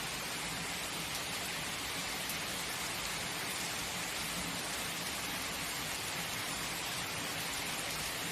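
Steady heavy rain falling, an even hiss of raindrops without breaks.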